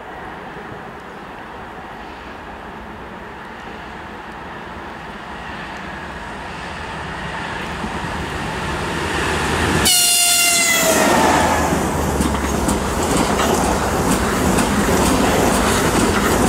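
EP20 electric locomotive hauling a Talgo Strizh high-speed train, its running noise growing steadily louder as it approaches. About ten seconds in, the locomotive gives a single horn blast lasting a second or two, its pitch dropping slightly as it passes. Then come the loud rush and clatter of the Talgo coaches' wheels going by.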